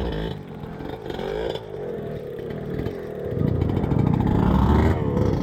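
A motorcycle engine revving as it climbs, its pitch rising and falling, growing louder about three seconds in.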